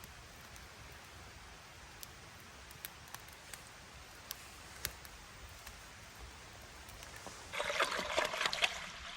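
Water trickling steadily with scattered drip-like ticks, then a louder, denser splashing spell lasting about a second and a half near the end.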